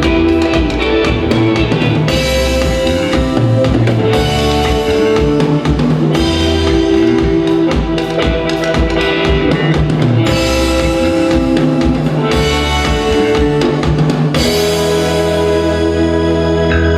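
Live rock band playing an instrumental passage on drum kit, electric guitar and bass, with chords changing about every two seconds. Near the end the drumming drops out under a long held chord.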